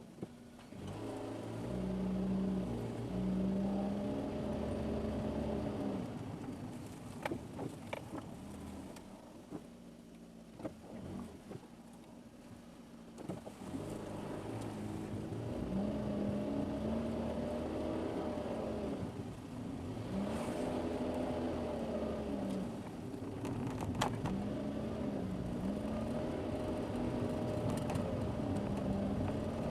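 Car engine and road noise recorded by a dashboard camera inside the car, the engine note rising and falling again and again as the throttle is worked. A few sharp knocks come through, the loudest near the end.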